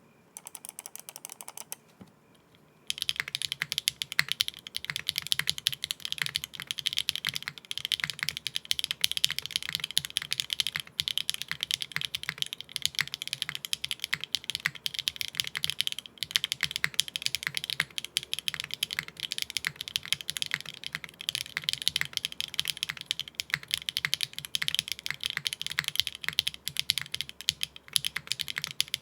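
Fast continuous typing on an HMX Hyacinth V2U 60% mechanical keyboard with a nylon plate, no foam and GMK keycaps: a dense run of clacky keystrokes. The typing starts in earnest about three seconds in, after a brief fainter stretch.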